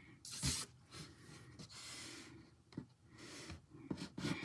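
Pencil strokes scratching on paper while sketching, a few separate strokes with the first, about half a second in, the loudest.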